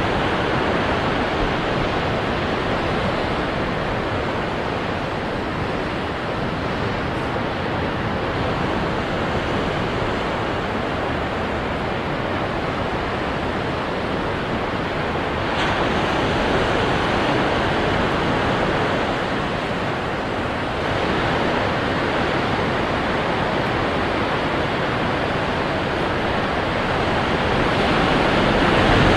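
Ocean surf breaking on rocks: a continuous wash of noise that swells about halfway through and again near the end.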